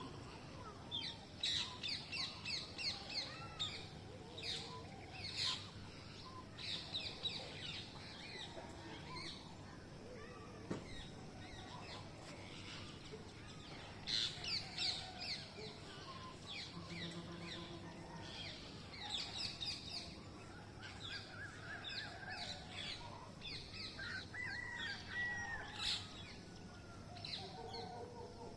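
Green parrots calling: bouts of rapid, shrill screeching notes, repeated every few seconds, with a clearer held bird call near the end.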